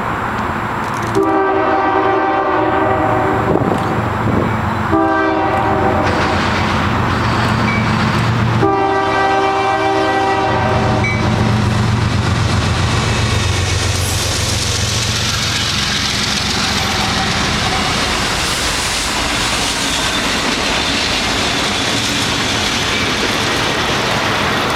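A CSX light engine move of several diesel locomotives running with no cars. The lead unit's multi-note air horn sounds three blasts: long, short, then long again. The locomotives then rumble past with wheel and rail noise that builds and stays loud to the end.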